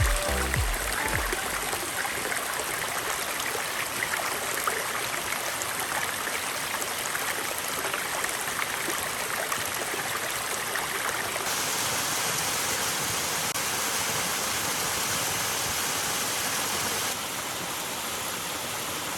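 Water of a small waterfall cascading over rock, a steady rushing and splashing. Its tone changes abruptly twice, about a third of the way in and again near the end, as the spot shifts to another stretch of falling water.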